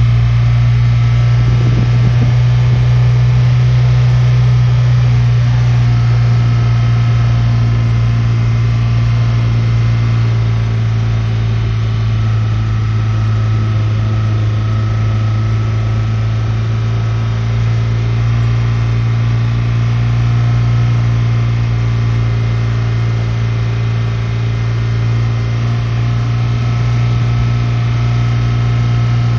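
Suzuki Sidekick's engine running at a steady speed while it pulls a sickle bar mower: a loud, even, low drone that hardly changes.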